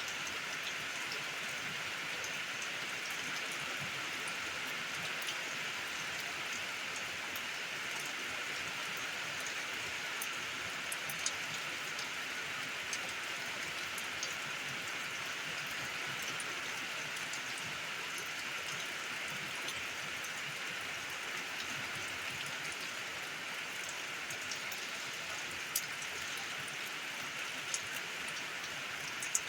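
Steady rain falling, an even hiss with scattered individual drops ticking, a few sharper drips standing out.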